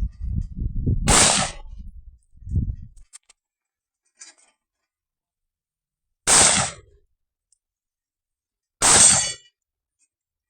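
Three single carbine shots, about a second in, about six seconds in, and again near the end. The last is followed by a brief metallic ringing. Low rumbling thumps run through the first two or three seconds.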